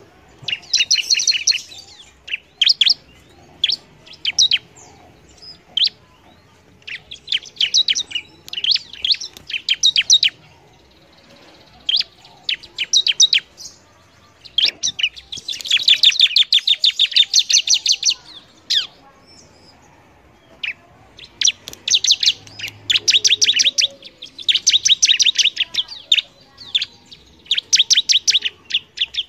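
Ciblek (bar-winged prinia) singing vigorously in bursts of rapid, high chirping notes, each burst about one to three seconds long, with short pauses between them.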